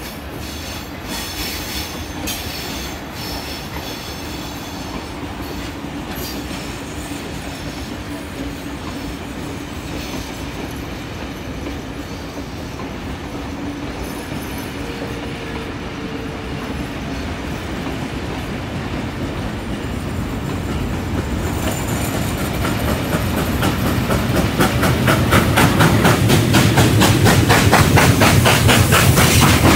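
Train carriages rolling past: a steady rumble of wheels clicking over the rail joints, with a faint squeal on the curve. From about two-thirds of the way through, a fast, even beat builds and grows louder as the working NSW C38 class steam locomotive 3801 draws near.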